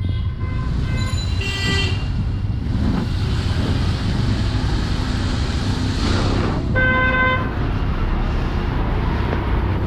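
City street traffic in the rain: a steady rumble of engines and tyres under an even hiss, with vehicle horns honking, a couple of short toots in the first two seconds and another horn blast around the middle.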